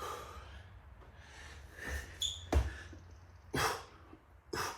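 A man breathing hard in short, heavy breaths while doing burpees, with a dull thud of a landing on the floor about halfway through.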